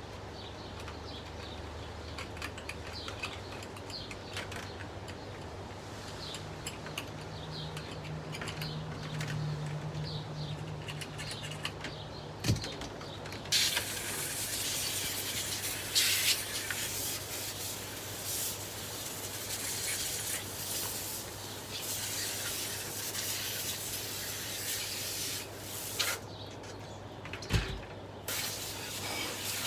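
Window air conditioner running with a steady electrical hum. About halfway through a loud rushing hiss starts, broken by a few sharp knocks.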